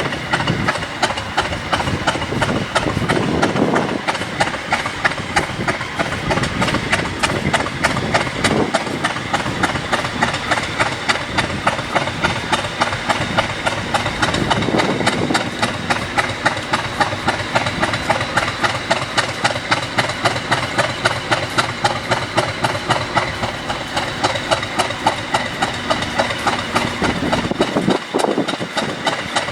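Class 50 diesel locomotive's English Electric 16CSVT V16 engine running at idle, with a steady pulsing beat of about three to four a second.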